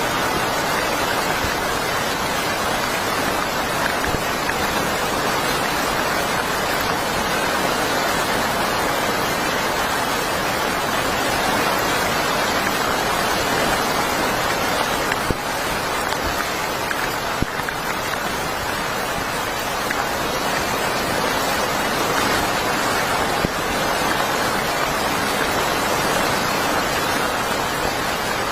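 Heavy rain falling steadily, with a few sharper drop impacts now and then.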